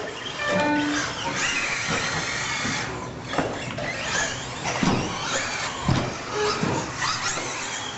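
Radio-controlled 1/10-scale stadium trucks racing on a dirt track: a steady mechanical racket with short squeals about half a second in and several sharp knocks between about three and six and a half seconds in.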